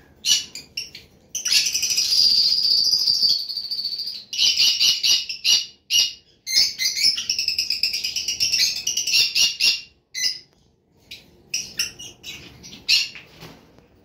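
Caged birds chirping and chattering in rapid high-pitched bursts, with a long unbroken trilling stretch about one and a half seconds in and brief pauses around six and ten seconds.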